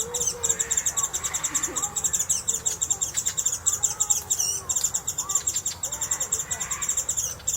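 Japanese white-eyes giving their thin, high contact calls in a rapid, unbroken chatter, with a longer sweeping call about halfway through.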